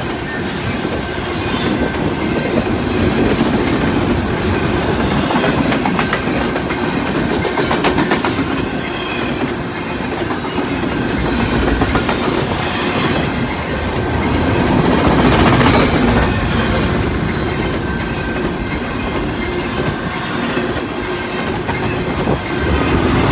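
Loaded double-stack container cars of a freight train rolling steadily past on the track, a continuous rumble of steel wheels on rail with clickety-clack as the wheels cross rail joints. A quick run of sharp clicks comes about six to eight seconds in.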